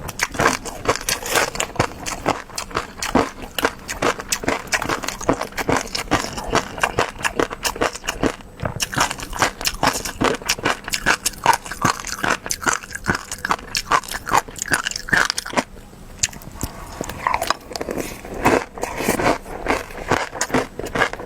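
Close-miked eating sounds: rapid, dense wet clicks and crunches of biting and chewing, with a short lull about sixteen seconds in.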